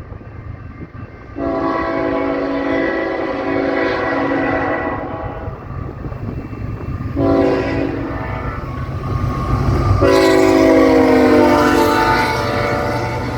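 Diesel locomotive horn on a two-engine BNSF intermodal freight train, sounded as a long blast, a short blast and a final loud long blast whose pitch falls as the train passes, over the low rumble of the moving train.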